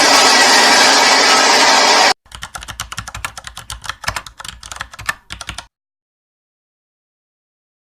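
Train running with its horn sounding, cut off abruptly about two seconds in. Then about three and a half seconds of rapid computer-keyboard typing clicks, and then dead silence.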